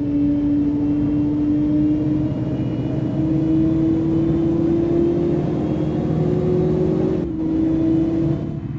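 Car engine running steadily under way, its pitch creeping slowly upward in small steps as it gently gathers speed, with a short break about seven seconds in.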